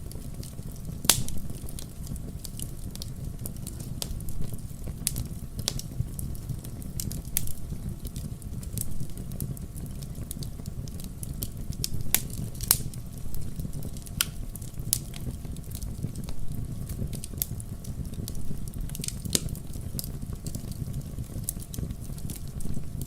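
Wood fire burning in a fireplace: a steady low rush of flames with irregular sharp crackles and pops, a few louder snaps about a second in and around the middle.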